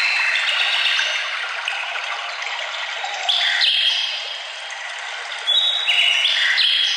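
A brook running steadily, with birds singing clear whistled notes over it; one bird's phrase of stepped, steady-pitched whistles comes in about three seconds in and another just past halfway, each lifting the loudness.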